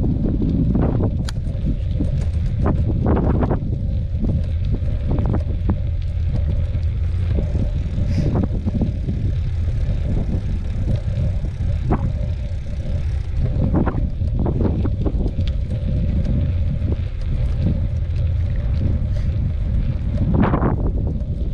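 Mountain bike riding over a dirt trail: steady wind rumble on the microphone, with irregular rattles and knocks from the bike over bumps.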